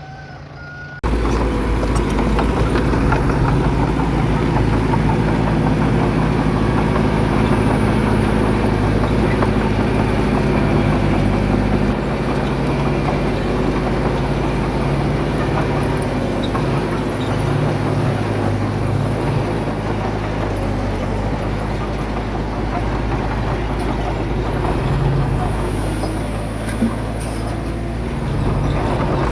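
Heavy diesel engine of earthmoving equipment running steadily under load. It cuts in suddenly about a second in.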